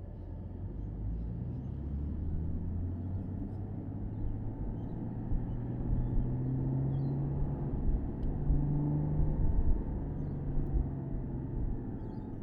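Porsche Boxster S's 3.4-litre flat-six engine running under way, with road and wind rumble from the open-top car. The engine grows louder over the first couple of seconds, and its note rises for a moment about eight seconds in before settling lower.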